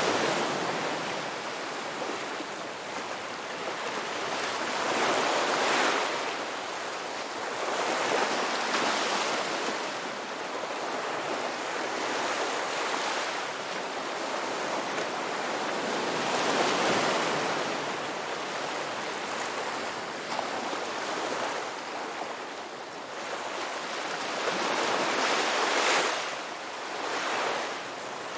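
Ocean waves breaking and washing onto a beach, a steady rush of surf that swells and recedes every few seconds.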